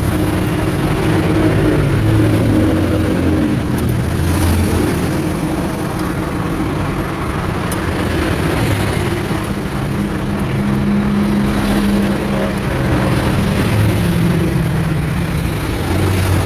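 Road traffic: motor vehicle engines running steadily, their pitch shifting as vehicles pass.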